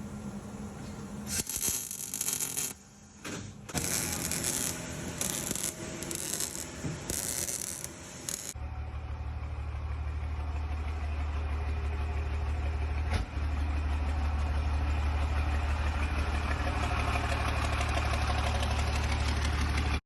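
Cummins diesel engine of a Ford truck running at a steady idle, a strong low drone that sets in about eight seconds in. Before it come uneven bursts of rushing noise, and a single click sounds partway through the idle.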